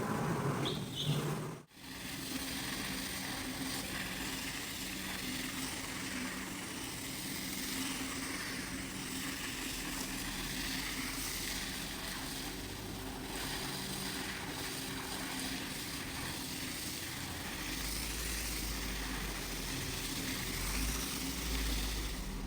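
Carpet-cleaning machinery running steadily: a motor hum under an even hiss, with a brief break about two seconds in and a deeper rumble joining near the end.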